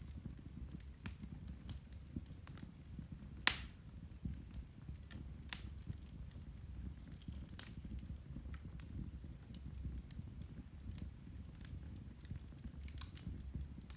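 Irish turf (peat) fire crackling: scattered, irregular pops and snaps, the sharpest about three and a half seconds in, over a low steady rumble.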